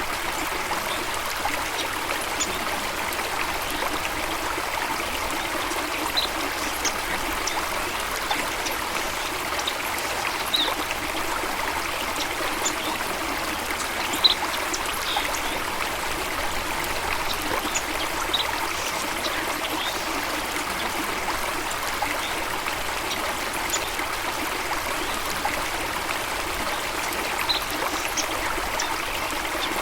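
Running water, a stream or small waterfall, flowing steadily. Short high-pitched ticks sound now and then over it, the strongest about halfway through.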